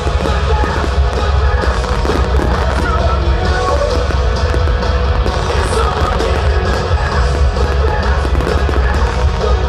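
Fireworks display set to loud rock music: a dense, continuous run of firework bangs and crackles over the music, with a heavy low rumble underneath.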